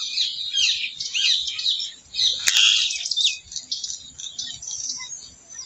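Several birds chirping and calling at once in a busy chorus of short, quick notes, thinning out over the second half. A single sharp click about two and a half seconds in.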